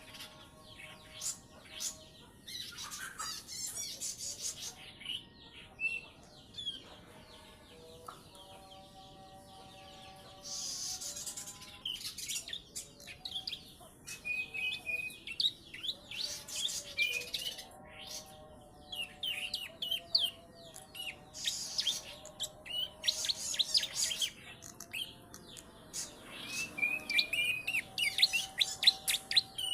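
A young prenjak (prinia) singing, with rapid high chirps and trilled phrases in bouts, including phrases copied from the ciblek's song.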